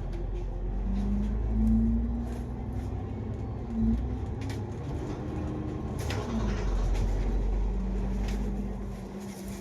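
Bus drivetrain heard from inside a double-decker bus under way: a deep engine rumble with a humming tone that rises and shifts pitch several times, with a few light knocks from the cabin.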